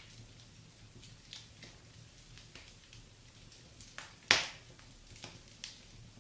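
Wood fire crackling, with scattered small pops and one loud, sharp pop about four seconds in.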